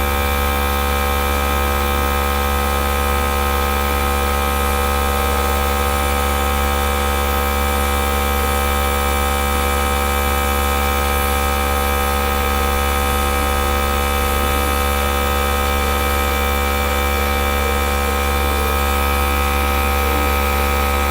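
Small electric air gun running steadily: a constant motor hum and whine with hissing air.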